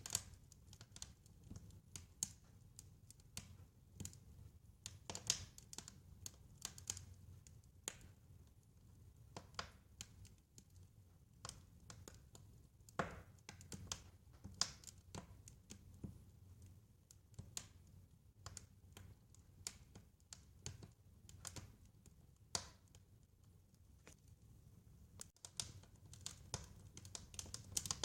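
Wood fire crackling, with irregular sharp pops and snaps, a few louder than the rest, over a faint low rumble.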